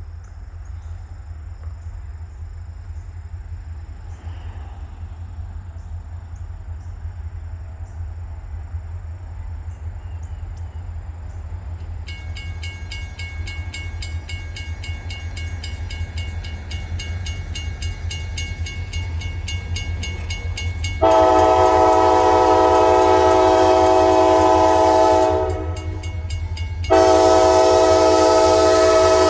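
Freight train hauled by SD40-2 diesel locomotives approaching a road grade crossing: a low engine rumble grows steadily louder, the crossing warning bell starts ringing rapidly about twelve seconds in, then the locomotive horn sounds one long loud blast and, after a short break, a second blast near the end.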